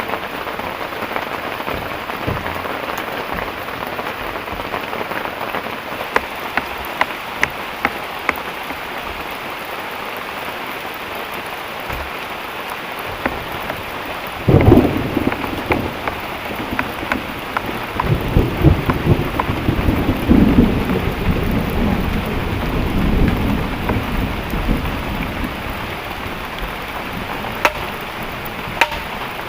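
Heavy rain falling steadily, with scattered sharp drop taps. About halfway through, a clap of thunder breaks suddenly and rolls on as a deep uneven rumble for several seconds before fading back into the rain.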